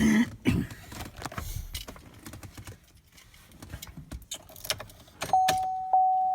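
Clicks and rattles of keys and the truck door, then about five seconds in the pickup's dashboard warning chime starts ringing, struck twice, one steady mid-pitched tone.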